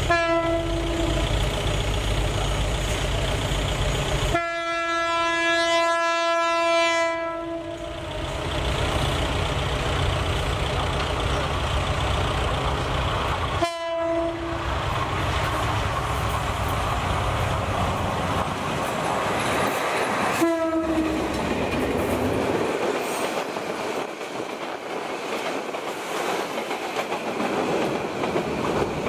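Diesel locomotive hauling a passenger train sounds its single-pitch horn: a short blast at the start, a long blast of about three seconds, then two more short blasts, over the low rumble of its running engine. Near the end the passenger coaches roll past with a clickety-clack of wheels over the rail joints.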